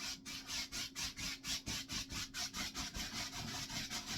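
Stiff-bristled paintbrush scrubbing acrylic paint onto a canvas in quick back-and-forth strokes, a scratchy rub about four times a second.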